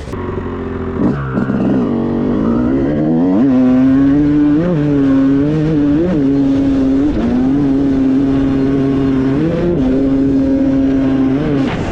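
Motocross dirt bike engine revving up about a second in, then held at high revs with a few brief throttle dips and blips as it is ridden. The revs drop off near the end.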